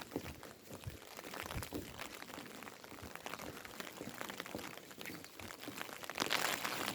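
Rain falling, with many scattered drops ticking close by. A louder rush of hissing noise builds near the end.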